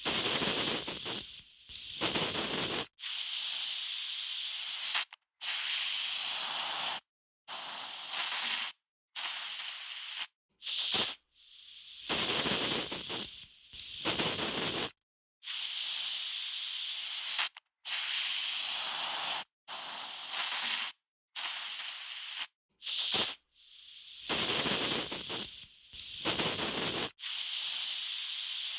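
Aerosol spray can hissing in repeated bursts, some short puffs and some sprays of about two seconds, each cut off sharply with silence between.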